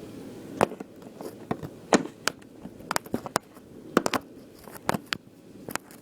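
A run of irregular sharp clicks and taps, about a dozen across a few seconds, over a faint steady background.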